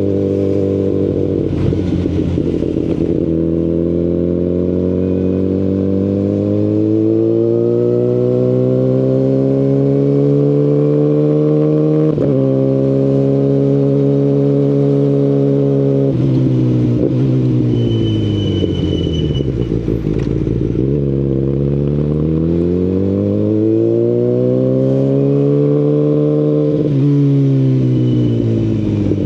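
2019 Kawasaki Ninja ZX-10RR's inline-four engine through an Akrapovic Evolution carbon full exhaust, pulling away with revs rising and falling several times. The pitch drops suddenly about 12 seconds in at a gear change, sinks as the bike slows around the middle, then climbs again and falls away near the end.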